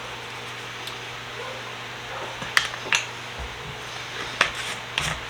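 A few sharp clicks and light knocks of a container and measuring gear being handled while rust-remover powder is added to a water bath, over a steady fan hum. The knocks start about two and a half seconds in, four of them spread over the last few seconds.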